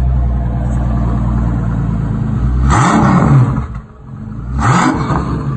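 Maybach Exelero's twin-turbo V12 idling, then revved hard twice, the pitch shooting up and falling back each time, about three and five seconds in.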